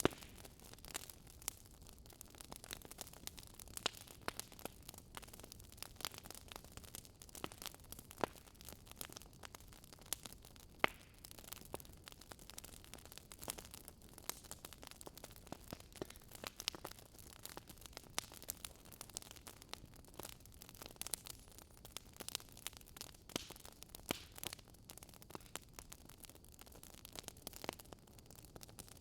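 Wood fire crackling: irregular pops and snaps over a soft steady hiss.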